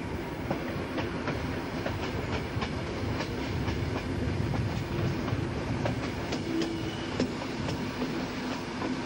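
Passenger carriage of a train on the move, heard at the carriage window: a steady rumbling run with frequent irregular clicks and rattles from the wheels on the track.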